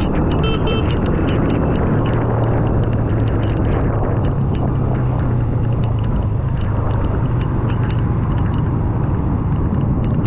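Honda single-cylinder motorcycle engine running steadily while riding, its pitch rising slightly about two seconds in, under continuous road and wind noise.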